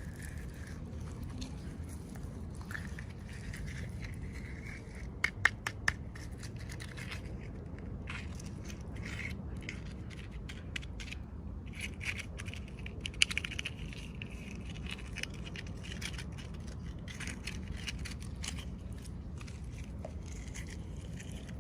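Hands handling and opening small plastic and cardboard toy packaging: scraping, crinkling and cutting. There are three sharp clicks about five seconds in and another run of clicks a little past the middle, over a steady low hum.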